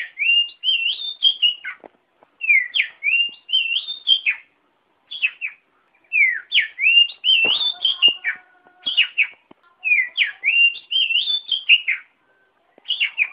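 Oriental magpie-robin (kacer) singing loud, varied whistled phrases with quick rising and falling notes, each phrase lasting a second or two and separated by short pauses.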